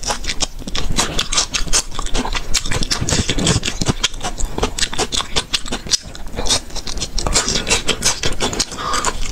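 Close-miked chewing and lip-smacking as chewy pieces of spicy braised pork are eaten: a quick, uneven run of wet mouth clicks and smacks, several a second.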